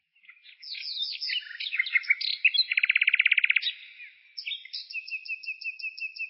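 Songbirds singing: a run of quick varied chirps, then a fast rapid trill about three seconds in, then a steady series of short repeated notes toward the end.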